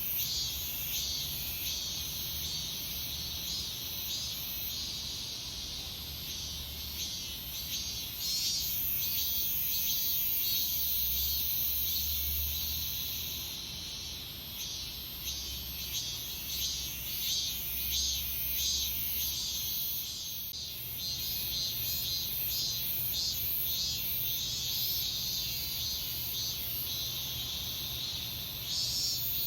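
Chorus of cicadas singing in late summer: dense, high-pitched buzzing with quick, uneven pulsing as several songs overlap.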